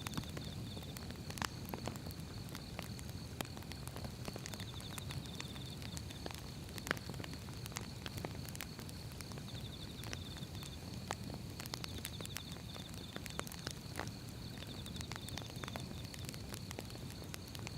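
Firewood burning: a low steady rumble of flames with irregular sharp crackles and pops. Behind it, a faint steady high tone and short trilling chirps recur every few seconds.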